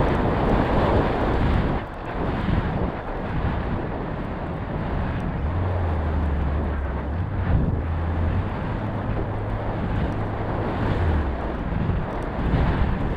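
Strong wind buffeting the microphone: a steady, loud rush with a low rumble, and a steadier low hum from about five to eleven seconds in.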